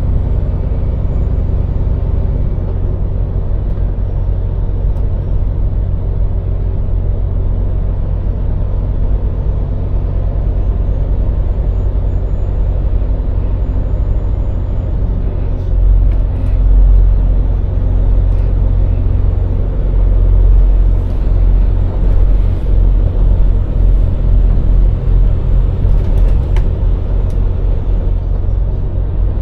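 Scania lorry engine running under way, a deep steady rumble that grows louder about halfway through.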